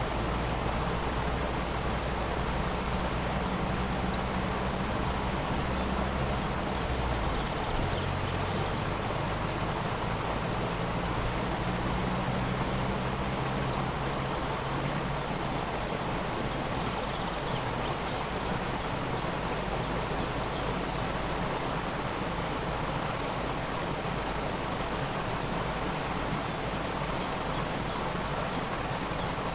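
Waterfall rushing steadily, with a small bird singing rows of quick, high chirps from about six seconds in; the bird pauses and starts again near the end. A low hum sits under the water during the first several seconds and then fades out.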